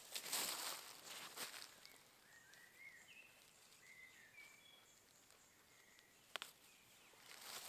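Quiet forest: a soft rustle of handling or stepping in the first second or so, then a few faint, short bird chirps, and a single sharp click about six seconds in before rustling starts again near the end.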